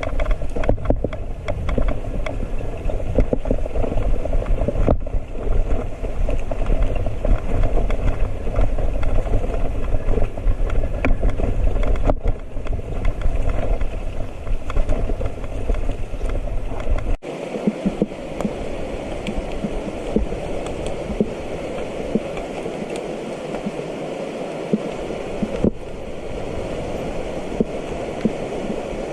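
Mountain bike ride heard from the rider's camera: wind rumble on the microphone and a rattle of small knocks from riding over rough ground. About 17 seconds in the rumble drops away, leaving a steady rush of river water and the rattle of the bike.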